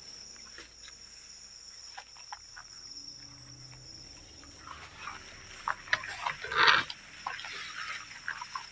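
Night insects chirring steadily at a high pitch, with scattered small clicks and ticks. A short, louder rustling scrape comes about six and a half seconds in.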